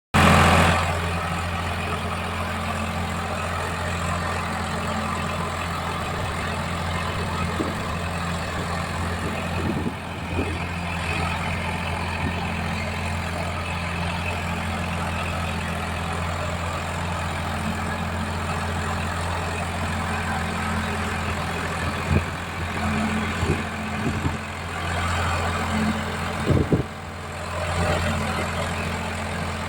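Eicher 551 Prima G3 tractor's diesel engine idling steadily, with a few short knocks and brief dips in level in the last several seconds.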